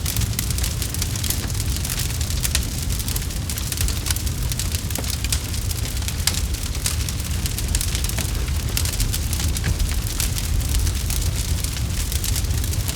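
Campfire crackling: frequent irregular sharp pops and crackles over a steady low rumble of burning wood.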